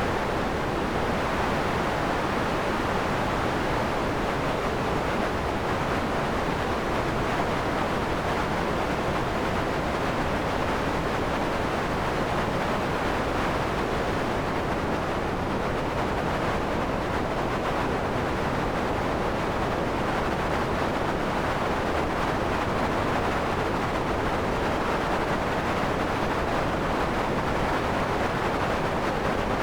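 Synthesized wind made in Max: a steady rushing noise centred in the mid range. Its upper part thins out about halfway through and comes back near the end.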